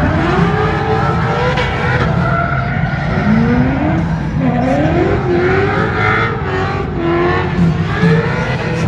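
Car engines revving hard, their pitch sliding up and down repeatedly, with tire squeal over a steady low rumble.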